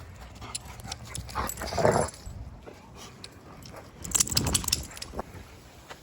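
Dogs greeting, with two short, rough vocal sounds, one about a second and a half in and one about four seconds in, and light scattered clicks between them.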